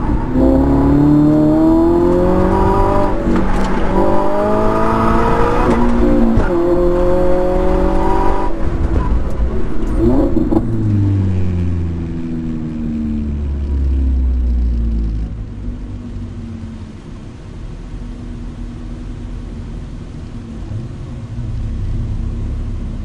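2022 Subaru BRZ's 2.4-litre flat-four engine heard from inside the cabin during an autocross run, its pitch rising and falling repeatedly under hard throttle and lifts. After about eight seconds the note drops low as the car slows, and it carries on more quietly toward the end.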